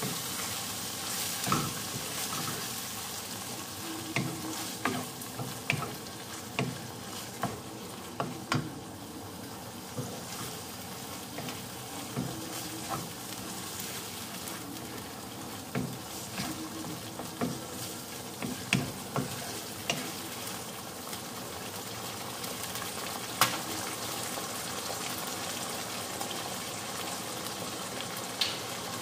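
Minced beef and tomato sauce sizzling in a large frying pan while a wooden spoon stirs it, knocking and scraping against the pan roughly once a second for the first twenty seconds. A single sharp click comes about two-thirds of the way in, and the sizzle then carries on alone.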